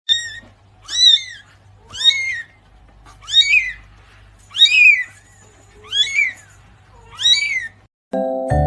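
A kitten meowing over and over: seven high-pitched meows, each rising then falling, a little over a second apart. Tinkling mallet-bell music starts near the end.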